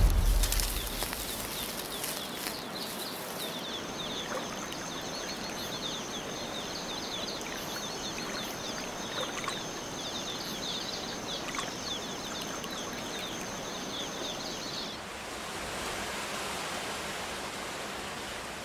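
Rainforest ambience. It opens with a loud rush of noise that fades within the first second. From a few seconds in there is a steady high buzz with rapid high chirping calls, which stop about 15 seconds in, leaving a soft hiss like running water.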